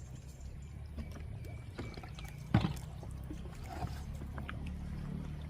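Bamboo raft on a shallow river: a steady low rumble with scattered small knocks, and one sharp knock about two and a half seconds in.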